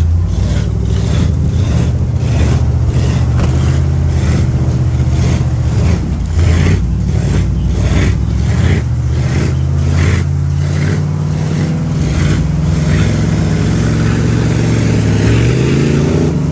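Big mud truck's engine running and revving, its pitch dropping about six seconds in and rising again near the end.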